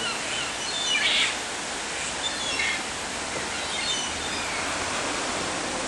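Steady rush of water, with faint short bird chirps scattered through and a slightly louder one about a second in.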